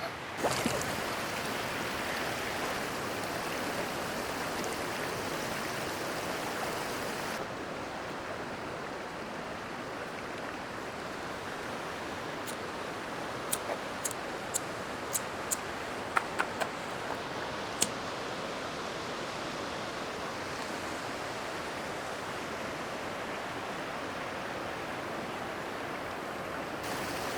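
Steady rushing of flowing water, whose hiss changes abruptly about seven seconds in. A scatter of about ten sharp clicks falls in the middle.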